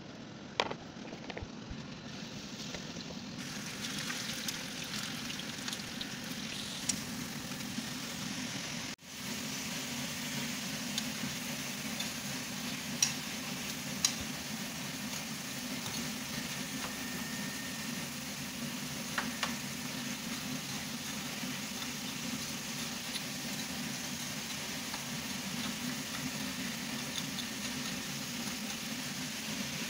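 Potato fries frying in hot oil in a pan, a steady sizzle, with a few sharp clicks of metal tongs against the pan as they are turned. The sound drops out briefly about nine seconds in.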